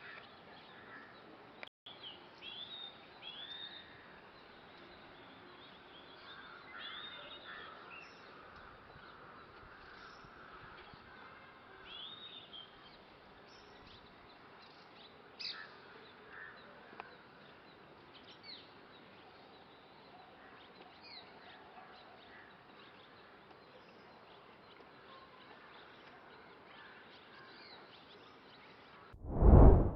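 Red-rumped swallows calling at intervals: short chirps and twitters, some curving in pitch, over a steady faint background hiss. A much louder, sudden sound breaks in during the last second.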